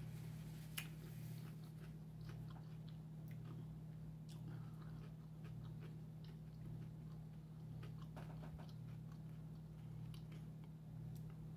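A person chewing and biting food close to the microphone, with small crunchy clicks scattered through, over a steady low hum.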